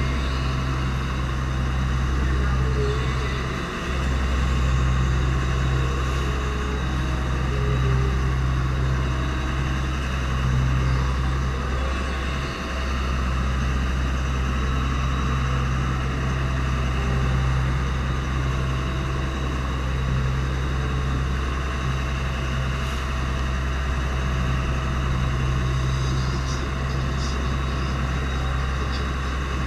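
Fishing boat's engine running steadily, a constant low drone with hiss over it. The drone dips briefly twice.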